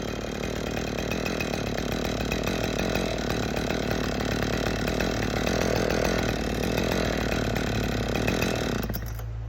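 Chainsaw running steadily, a little louder through the middle, then cutting off abruptly near the end.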